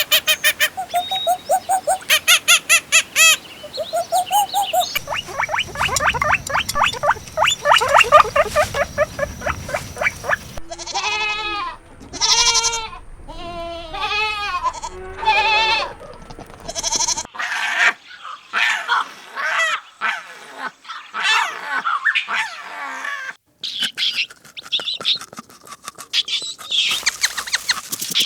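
Farm animal calls from several short clips spliced together, the sound changing abruptly every five or six seconds. Each clip holds runs of short repeated pitched calls, some of them bleat-like cries.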